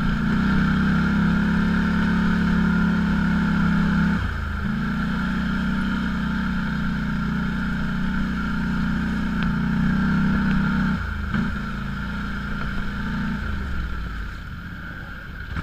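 Off-road vehicle engine running at a steady speed, its note breaking off briefly twice as the throttle eases, then dropping lower near the end.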